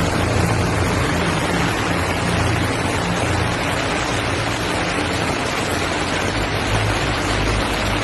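Floodwater rushing steadily, a loud, unbroken wash of water noise.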